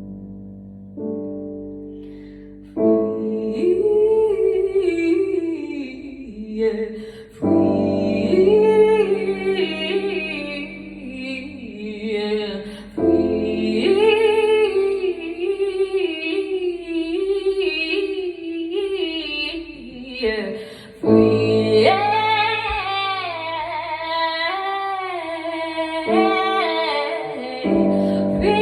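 Wordless singing, gliding and bending through long melodic runs, over sustained keyboard chords that change every few seconds.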